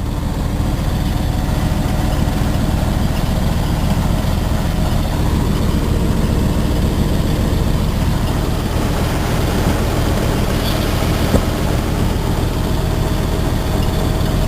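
Cement tanker truck's diesel engine running steadily with a low drone. There is a single brief click about eleven seconds in.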